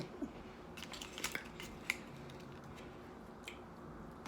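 Faint close-up eating sounds from a mouthful of fufu: a few short mouth clicks and smacks, clustered about a second in and once more near the end, over a steady low hum.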